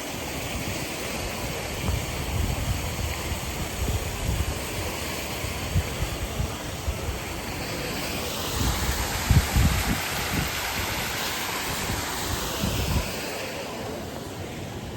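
Wind buffeting the microphone in irregular low thumps over a steady rushing noise. The rushing swells for a few seconds past the middle, then settles.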